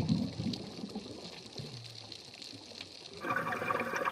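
Water sounds from a dive: a low wash of water with faint crackling, and a louder water sound coming in about three seconds in.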